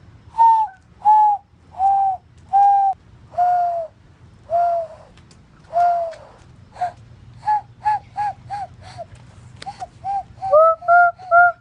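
Bird calls whistled by a person blowing into cupped hands, a string of dove-like hoots that each fall slightly in pitch. The first hoots are slow and drawn out, then they come shorter and quicker, and near the end each call carries a second, higher note.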